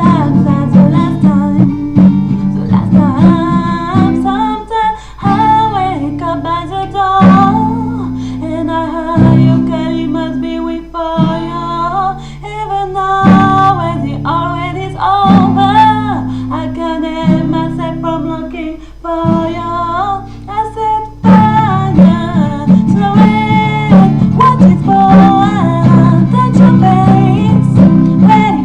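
A voice singing a melody over guitar. The guitar holds chords that change every second or two, then goes back to steady strumming about three-quarters of the way through.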